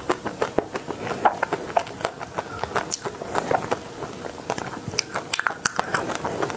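Close-miked chewing of a bitten chocolate-swirl ice cream bar: a dense, irregular run of short crisp clicks and mouth sounds.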